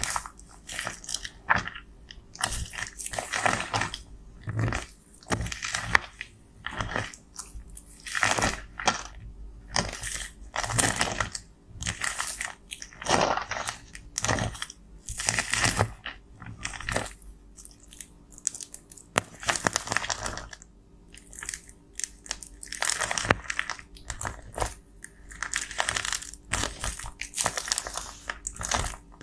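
Pressed cosmetic powder being crushed and scraped up close: a long run of gritty crunching strokes, one every second or two.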